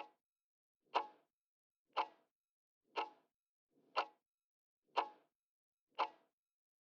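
Clock-tick sound effect counting down the time to answer a quiz question, with a sharp tick once a second, seven ticks in all.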